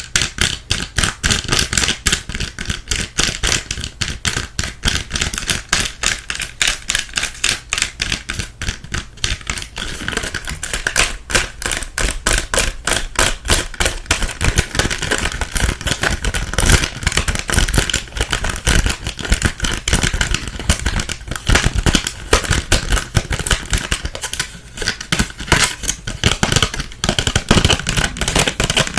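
Fast, irregular tapping and clicking on small objects close to the microphone, several strikes a second, with a dull knock under some of them.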